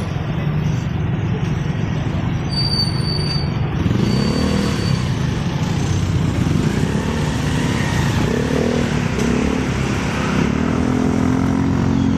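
Motorcycle being ridden in traffic: a steady low rumble of engine, road and wind, with the engine note rising and falling a few times midway.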